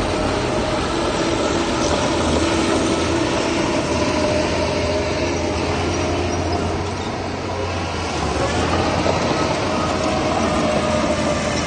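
Heavy earthmoving machinery running steadily: a diesel engine hum with a thin steady whine over it, easing off slightly about seven seconds in.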